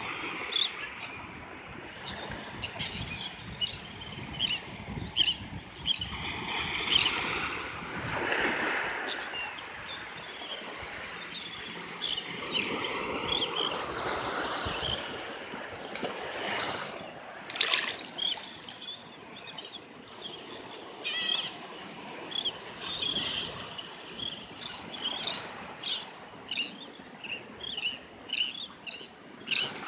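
Water splashing and trickling at the shore, with many short bird calls scattered throughout and a few louder splashes.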